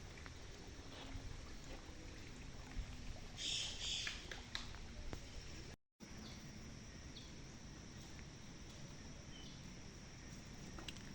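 Outdoor ambience with a steady background hiss. A loud, harsh double call, likely from a bird, comes about three and a half seconds in, and a few short high chirps follow later. The sound cuts out completely for a moment just before the six-second mark.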